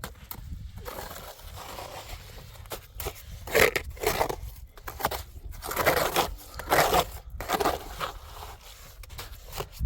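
Irregular crunching and scraping, a handful of separate strokes over a low steady rumble.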